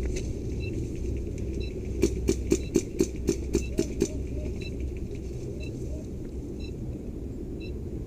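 Airsoft gun firing a quick string of about nine shots, roughly four to five a second, about two seconds in. Over a steady low rumble, a small electronic beep sounds about once a second: the countdown timer of the carried bomb prop.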